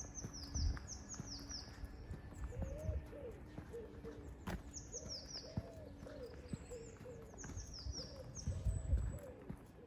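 Birds singing: a small songbird's phrase of quick, high falling notes and a pigeon's low cooing phrase, each repeated three times, over low footstep thuds.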